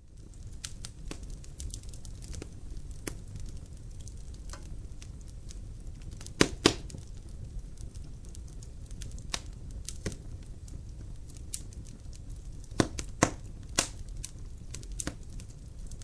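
Wood fire crackling in a fireplace: a steady low rumble of flames with scattered sharp pops, the loudest a close pair about six and a half seconds in and another pair around thirteen seconds.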